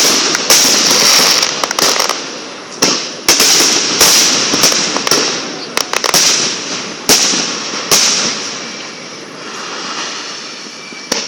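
Fireworks display: a rapid series of loud bangs from bursting aerial shells, with dense crackling and fizzing between them. The bangs thin out and the crackle dies down about nine seconds in, then one more bang comes near the end.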